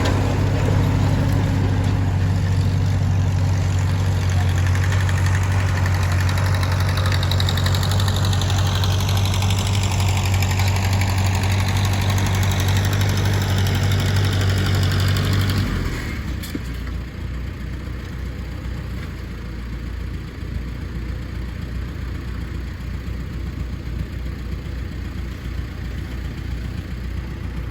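Tractor engine running with a steady drone, which drops suddenly about two-thirds of the way through and gives way to a quieter, lower engine rumble.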